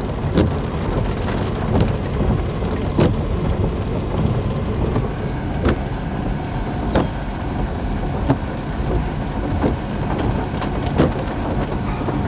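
Heavy rain drumming steadily on a vehicle, with sharp knocks standing out every second or so.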